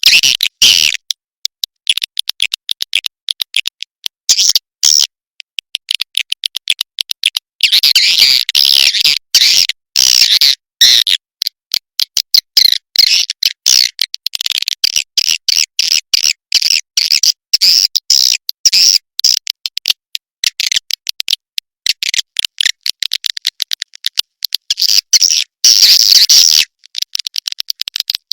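Swiftlet lure call (suara panggil walet): dense, rapid trains of high-pitched chirping, clicking twitters with short breaks, the sound played to draw swiftlets into a nesting house.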